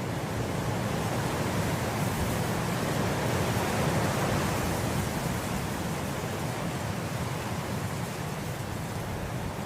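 Wind blowing through grass in a steady rushing hiss, swelling in a gust about four seconds in and easing off again.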